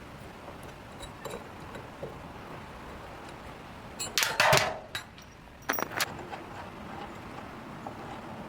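Metal clinking and scraping: a burst of sharp clinks about four seconds in, the loudest part, and a couple more just before six seconds, with a few faint clicks otherwise.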